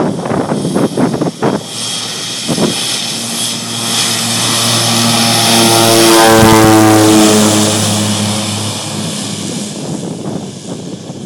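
Air Tractor 502 turboprop crop-duster passing by during its take-off run: the propeller drone grows louder to a peak about six or seven seconds in, then drops in pitch and fades as the plane goes past.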